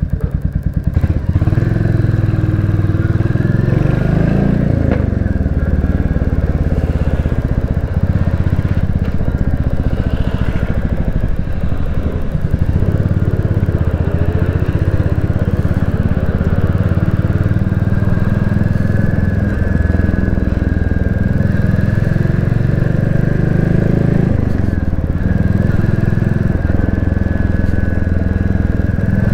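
Royal Enfield Classic 350's single-cylinder engine and exhaust pulling away from idle and riding on, rising in pitch and dropping back at gear changes a few seconds in and again near the end.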